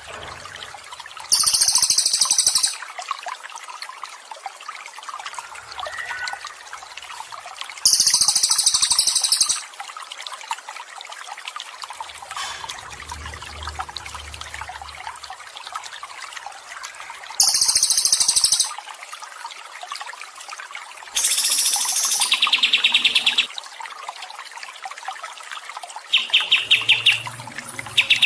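Recorded songbird song used as a master track for cage birds, heard over a steady trickle of running water. The song comes in about five loud phrases of a second or two: three very high, shrill ones spaced several seconds apart, then two faster trilled ones near the end.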